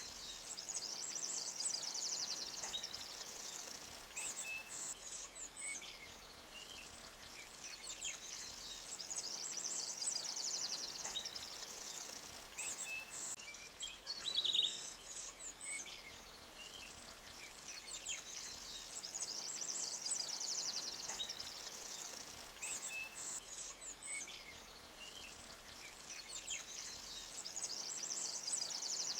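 Forest birds chirping, with high, rapid trills that come back about every eight seconds and a louder single chirp about halfway through, over a faint steady hiss.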